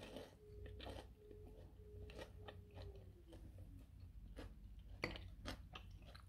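Crispy fried vegetable fritters (bakwan) being bitten and chewed: a string of short crunches and crackles, the sharpest about five seconds in. A faint steady hum sinks in pitch and fades about three seconds in.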